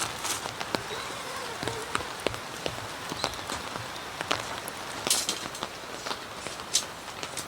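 Rain falling steadily, with many irregular sharp drips and taps of drops striking a surface.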